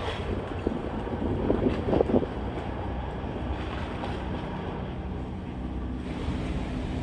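A ferry's engines drone under wind buffeting the microphone and water rushing past the hull, with a couple of louder gusts about two seconds in and a steady hum coming in about halfway.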